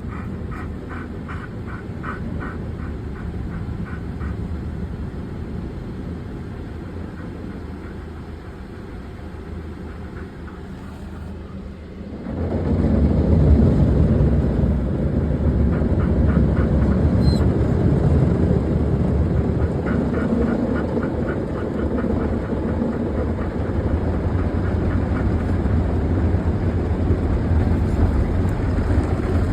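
Car wash machinery heard from inside a car: a steady rumble that jumps much louder about twelve seconds in, with a rapid rhythmic ticking now and then.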